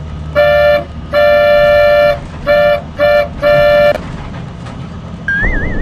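A vehicle horn honking five times, one short toot, one long, then three short, over a low, steady engine rumble. Near the end a high warbling whistle starts.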